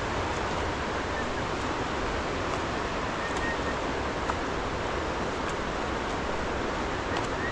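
Steady rushing of water, as loud as the surrounding speech, with a few faint ticks.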